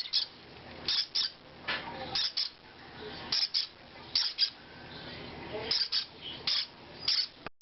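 Hand-fed baby parrots, the young parrotlets and budgie chicks, making short high-pitched begging calls, mostly in quick pairs, about one pair a second.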